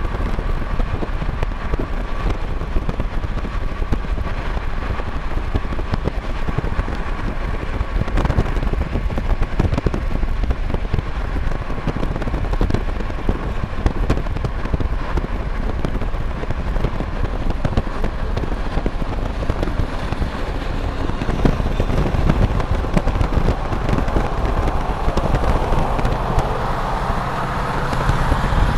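Union Pacific freight train of autorack cars rolling past, wheels and cars rattling and clicking steadily. A faint thin squeal is heard in the first several seconds, and a low diesel engine drone builds toward the end.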